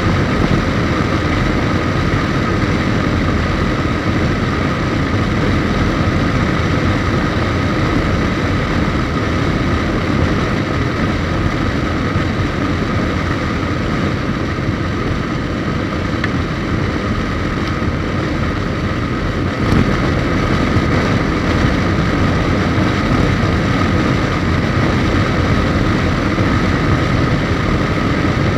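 Suzuki GSX1250FA's inline-four engine running steadily at cruise, heard from the moving motorcycle along with a dense rush of wind and road noise and a faint steady whine.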